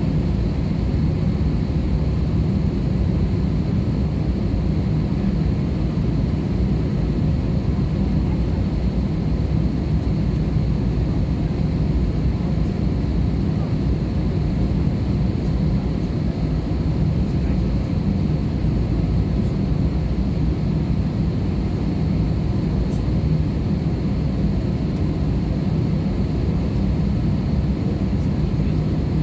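Airbus A320-214 cabin noise in flight: the steady rumble of its CFM56 engines and airflow, with a faint steady high whine.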